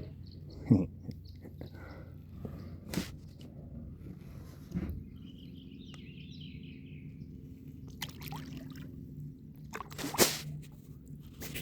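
Kayak paddling: water dripping and splashing off the paddle blades, with a few short sharp knocks about a second in, at three and five seconds, and near ten seconds. A short run of bird notes near the middle.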